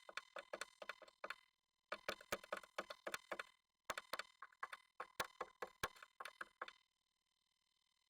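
A Japanese tit making rapid sharp taps inside a nest box, several a second in bouts of a second or two, stopping about seven seconds in.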